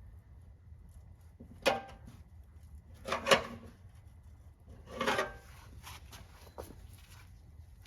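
A few separate knocks and clunks of objects being handled, the loudest a double knock about three seconds in and a longer clattering one around five seconds in.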